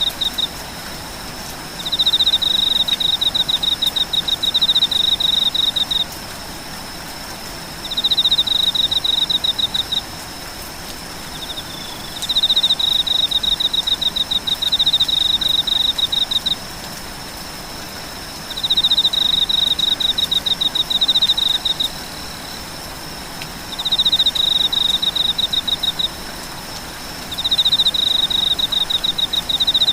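Steady rain with a high, pulsed trill that repeats in bouts of two to four seconds, a few seconds apart, over a faint steady high whine.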